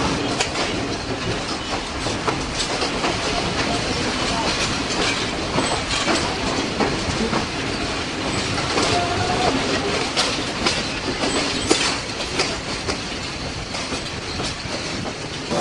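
Train running along the rails, its wheels clicking over the rail joints in a steady clatter.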